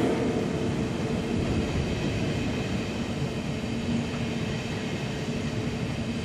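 ICE high-speed train running past on the rails: a steady rumble of wheels on track with a low, steady hum, slowly growing quieter.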